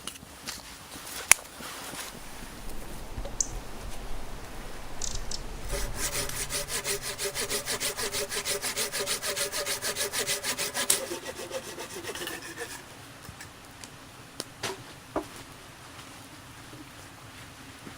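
Hand saw cutting through wood in a run of quick, even strokes lasting about five seconds, with the blade ringing faintly. A few sharp knocks sound before and after.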